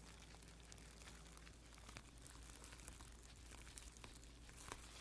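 Near silence, with faint rustling and a few light clicks of a puppy's paw being wiped clean.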